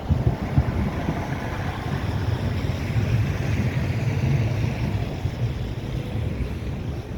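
Wind buffeting the microphone over the rumble of street traffic, with a vehicle passing about three to four seconds in.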